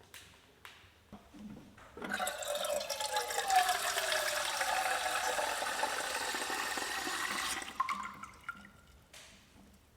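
Water running and splashing for about five and a half seconds, starting suddenly about two seconds in and cutting off, with a faint falling tone through it.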